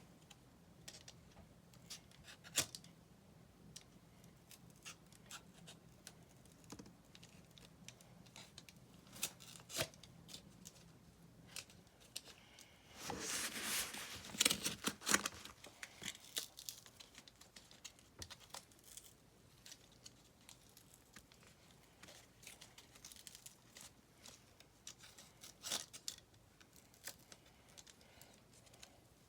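Cardboard and tape being worked by hand: scattered faint taps and scrapes, with a louder stretch of tearing about halfway through.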